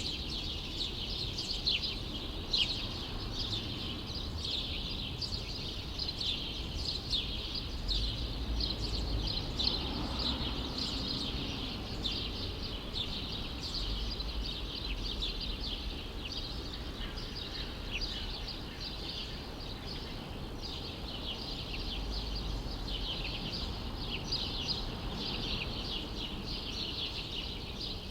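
A dense chorus of many small birds chirping together, with a steady low city rumble underneath.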